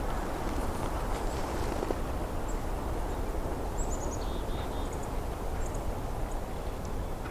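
Wild birds calling in winter woodland over a steady low rushing background noise. About four seconds in there is a quick falling series of thin, high notes, followed by a few lower chirps.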